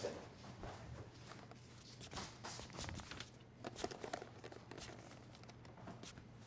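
Faint footsteps with light rustling and handling noises: a few scattered soft clicks and rustles over a low room hum.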